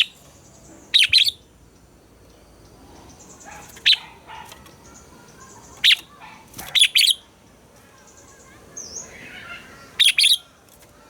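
Red-whiskered bulbul singing short, loud, high-pitched whistled phrases about every one to two seconds, several of them given as quick double notes.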